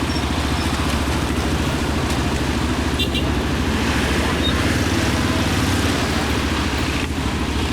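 Motorcycle engine running steadily at an even speed, heard while riding, with a brief clatter of clicks about three seconds in.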